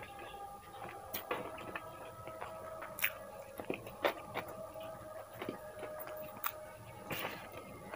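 Mouth noises of someone eating masala Maggi instant noodles: chewing, with a few sharp wet clicks and smacks scattered through it.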